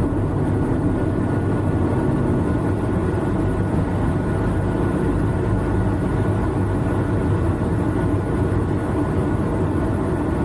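Semi truck running in traffic, a steady low drone of engine and road noise heard from inside the cab.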